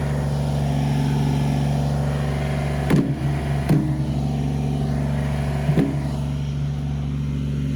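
Kubota BX23S tractor's three-cylinder diesel running steadily under load, with three sharp knocks about three, four and six seconds in.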